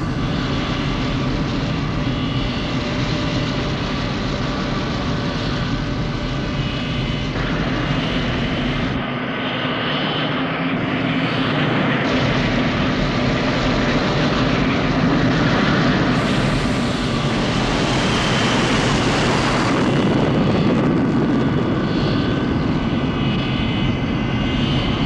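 Jet airliner engines running loud and steady as the plane gets under way for takeoff. The tone brightens and shifts several times, strongest about two-thirds of the way through.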